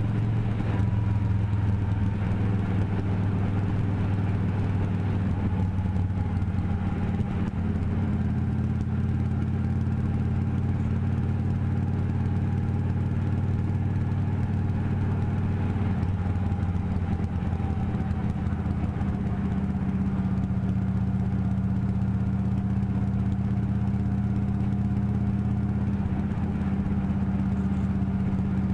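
Motorcycle engine running steadily while riding, its note shifting a few times along the way.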